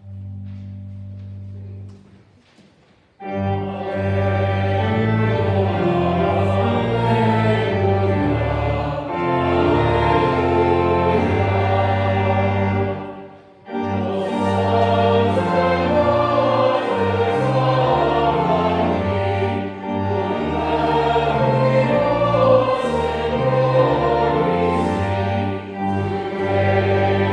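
Voices singing a hymn with instrumental accompaniment. A low note is held at first, the singing comes in about three seconds in, and it breaks briefly between phrases about halfway through.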